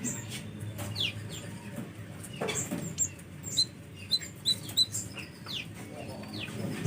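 Sunbird calls: thin, high chirps and short downward slurs, with a quick run of four sharp chips in the middle.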